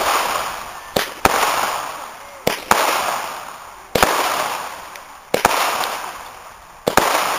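Fireworks display: aerial shells bursting with sharp bangs about every one and a half seconds, the first two in quick pairs. Each bang is followed by a long hiss that fades away.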